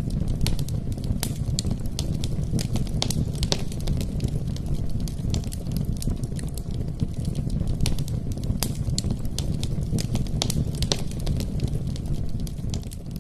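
Wood logs burning in a fireplace: many irregular sharp crackles and pops over a steady low rumble of the flames.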